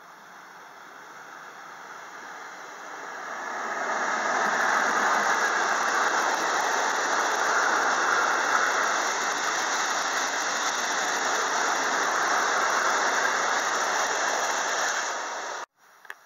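Freight train of tank wagons passing close by, its wheels running on the rails. The noise swells over the first few seconds, holds loud and steady, and cuts off suddenly near the end.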